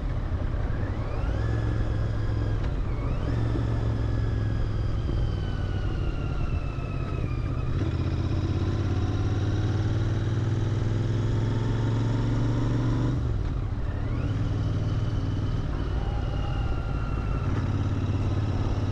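Royal Enfield Interceptor 650's parallel-twin engine running through its stock exhaust under way, its note climbing sharply and then sliding down again several times as the revs change, with a brief dip about thirteen seconds in.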